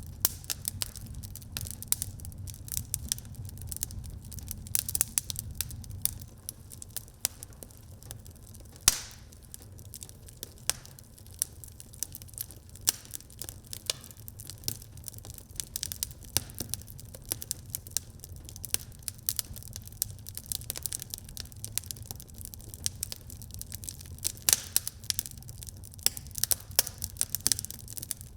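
Wood fire burning in a fireplace, crackling steadily with many small snaps and pops over a low rumble of flame; one louder pop about nine seconds in.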